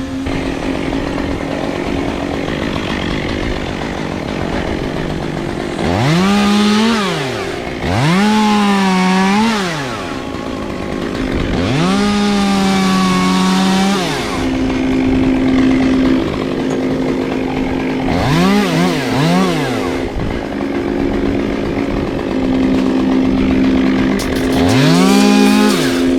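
Chainsaw idling and being throttled up about five times, each time revving to a high whine, holding briefly, then dropping back to idle.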